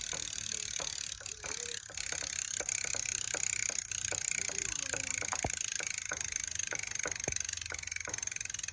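Ride1Up e-bike rear hub motor spinning with a regular knocking, about three knocks a second, over a steady high hiss. The mechanic often finds this kind of hub knock comes from hub bearings that do not sit in parallel planes, and this bike's rear dropouts are misaligned.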